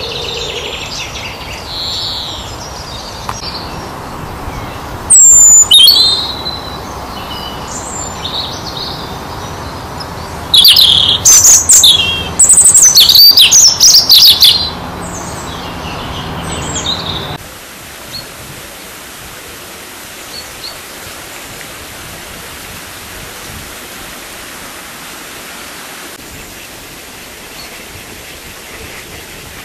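Small songbirds singing and calling, with high chirps and falling whistles. Very loud calls, very close to the microphone, come at about five seconds and again from about ten to fifteen seconds. After about seventeen seconds the song drops away, leaving a steady hiss with occasional faint chirps.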